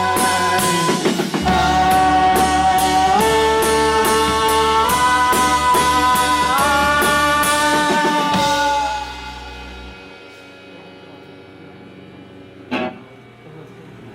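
Live rock band playing the instrumental close of a song: sustained guitar chords stepping through changes over drums with a steady cymbal beat. The band stops about eight seconds in and the last chord rings out and fades, followed by a quieter stretch with a single knock near the end.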